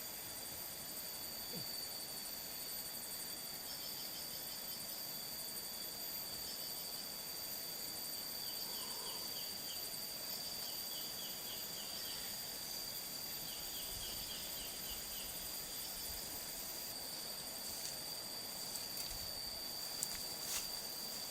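Insects, such as crickets, trilling steadily at a high pitch, with short runs of rapid chirps every few seconds, over a steady hiss. A few sharp ticks come near the end.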